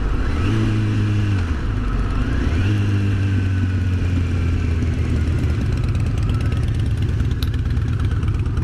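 2007 Kawasaki ZX-10R inline-four engine running while riding, its pitch stepping up and down as the throttle changes, under a steady rush of wind noise.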